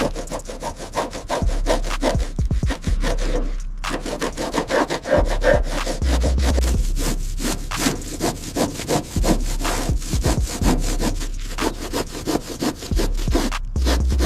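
Quick, repeated back-and-forth scraping strokes, like sanding or rubbing by hand on a hard surface, many strokes a second with a brief pause about four seconds in.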